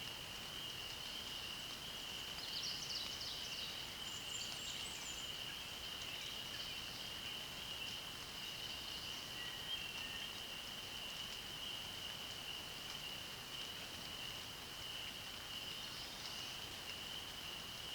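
Meadow wildlife chorus: a steady, high-pitched continuous trill from calling animals runs throughout. Short phrases of bird song come in a few seconds in and again near the end.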